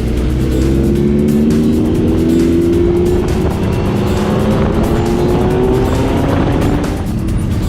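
Motorcycle engine pulling hard under acceleration, its exhaust note rising steadily in pitch over several seconds, with music mixed in.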